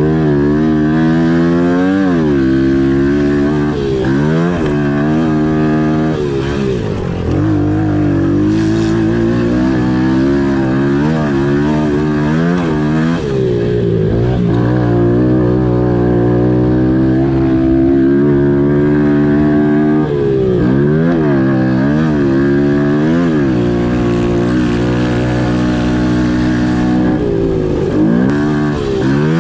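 Pit bike's small four-stroke single-cylinder engine being raced, held at high revs with short, sharp dips in pitch every few seconds as the throttle is rolled off and back on.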